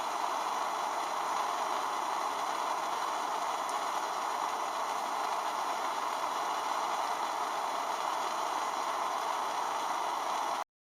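Steady rushing hiss that cuts off abruptly near the end.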